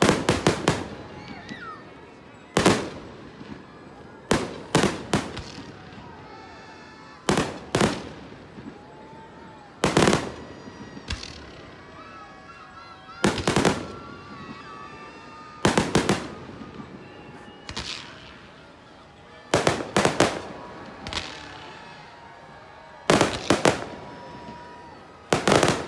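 Fireworks display: sharp explosive bangs coming in quick clusters of two or three, about every two to three seconds, each trailing off briefly.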